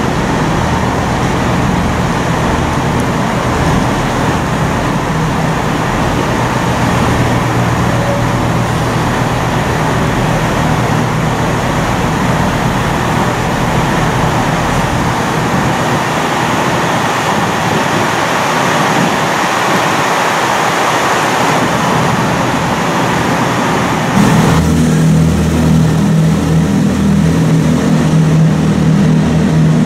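Diesel train engines running steadily with a low hum. About three-quarters of the way through, the sound changes suddenly to a louder, deeper engine drone.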